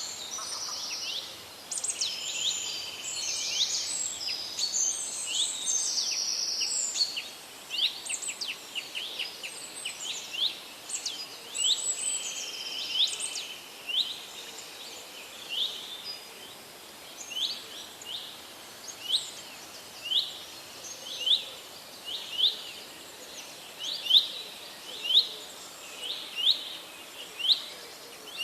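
Birds chirping and singing. In the first half several birds call over one another in a dense chorus; after that one bird mostly repeats a short, sharp chirp about once a second.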